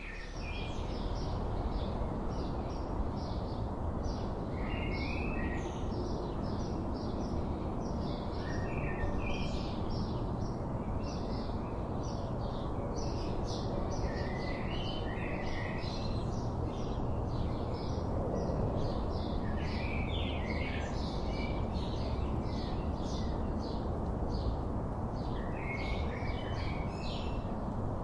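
Wild songbirds chirping over and over: many short, high chirps, several a second, mixed with occasional lower warbled phrases. Under them runs a steady low background rumble.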